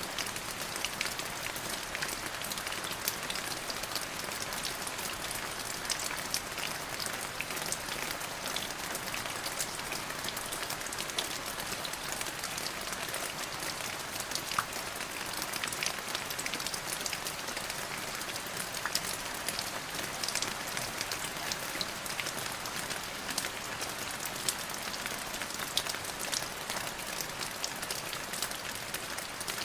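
Steady rain falling, with many individual drops pattering sharply on a surface.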